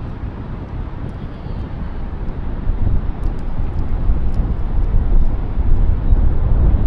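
Wind blowing over the microphone, a low rumble that grows louder about halfway through.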